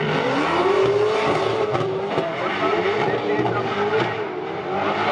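Drift car engines revving hard, the pitch rising and falling repeatedly over a steady rush of noise.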